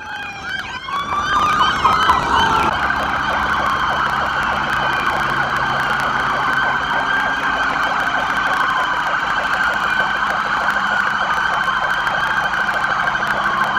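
Several police sirens wailing at once. Their rising and falling glides overlap audibly in the first few seconds, then blend into a dense, steady wall of wailing.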